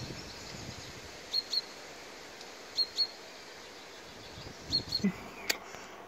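A small bird calling: short high chirps in quick pairs, repeated about every one and a half seconds.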